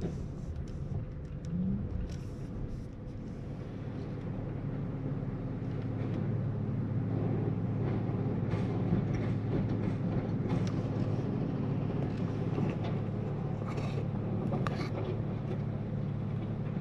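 Dodge Challenger's engine running as the car creeps along, heard from inside the cabin: a steady low hum that gets louder about five seconds in.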